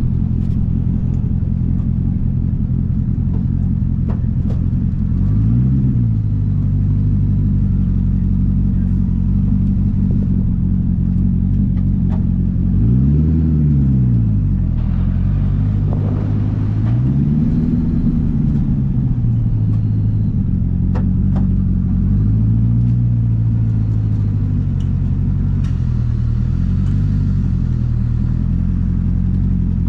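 LS7 7.0-litre V8 of a custom 1963 Corvette roadster running as it is driven, a steady low engine note that rises and falls about five times as the throttle is opened and eased off.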